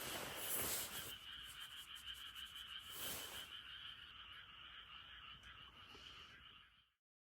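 Frogs calling in a steady chorus, fading out near the end.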